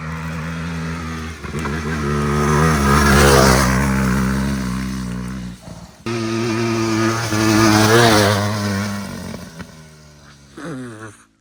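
Trials motorcycle engine revving up and easing off twice, then dying away near the end.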